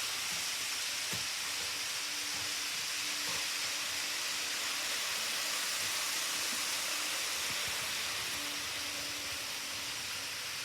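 Model railway trains running: a faint motor hum that comes and goes under a steady hiss, with a few light clicks.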